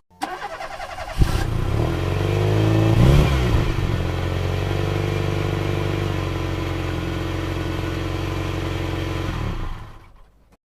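A vehicle engine running: it steps up about a second in, revs up and back down around three seconds in, then runs steadily and fades out near the end.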